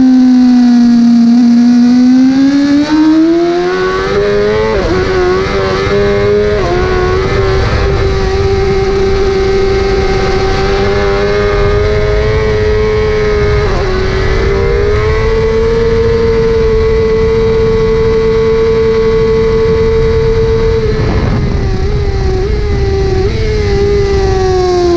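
Onboard sound of a 1000 cc superbike engine at race pace. The revs fall, then climb through a few quick gear changes and hold high and steady for a long stretch over loud wind rush. Near the end, throttle blips on the downshifts come as the revs fall.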